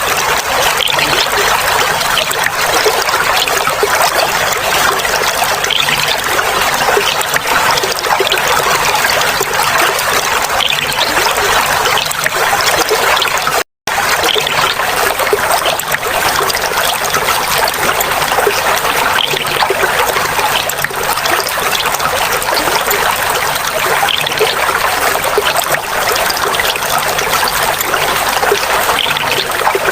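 Clear water trickling and splashing steadily, like a small stream running over stones. The sound cuts out for a split second about halfway through, then carries on unchanged.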